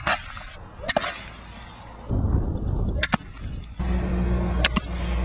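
Golf balls used as mock hailstones, hit with a club at a SpaCap hard spa cover: sharp cracks, four strikes with the last two in quick succession near the end.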